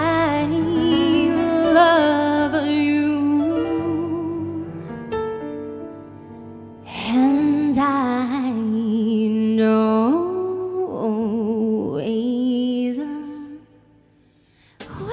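A woman singing wordless held notes with vibrato over soft accompaniment, in two long phrases, the closing ad-lib of a ballad; it stops about a second and a half before the end.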